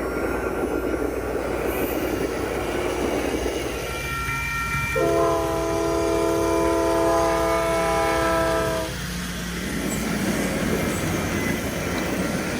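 A multi-note train horn sounds one long steady blast of about four seconds in the middle, over the constant running noise of N scale model trains on the layout.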